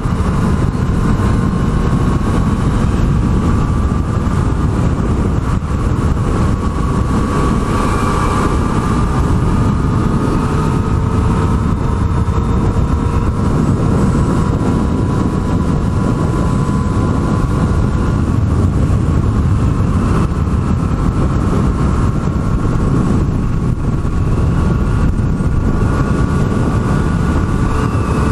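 Yamaha MT-09's three-cylinder engine running at light throttle on a long downhill ride, its note climbing slowly and evenly. Heavy wind and road rumble sit underneath it.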